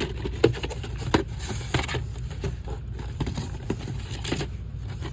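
Irregular clicks, taps and scrapes of objects being handled close to the microphone, over a steady low hum.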